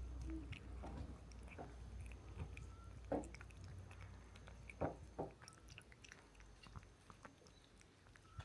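A person eating: soft, irregular chewing and clicking sounds, the loudest about three and five seconds in, over a low rumble that fades away.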